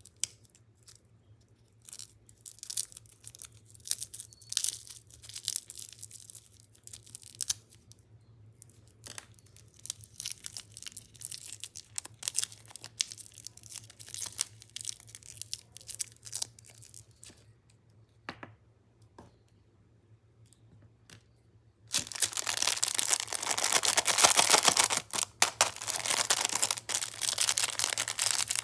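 Crinkly plastic lollipop wrappers being unwrapped, with scattered crackles and tearing sounds. After a short quiet pause, much denser and louder crinkling fills the last several seconds.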